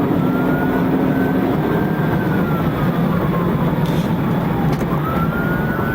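Steady road and engine noise of a vehicle at speed, with a siren slowly wailing up and down behind it.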